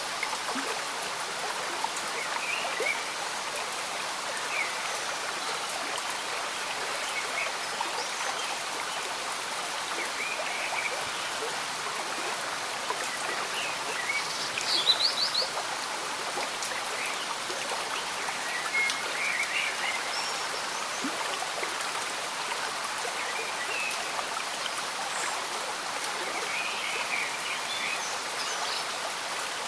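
Gently flowing, bubbling stream with steady rain falling. Short chirping calls come and go throughout, the loudest a quick run of notes about halfway through.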